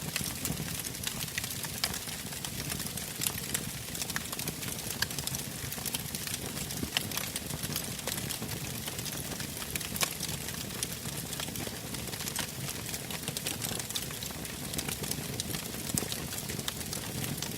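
Bonfire crackling: a steady hiss with frequent irregular pops and snaps.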